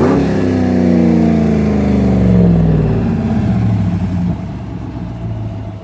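A 2016 Ram's 5.7-litre Hemi V8 with its mufflers deleted, close to straight-piped, floored so the revs jump up right at the start, then falling slowly back over about four seconds before settling to a lower, quieter run.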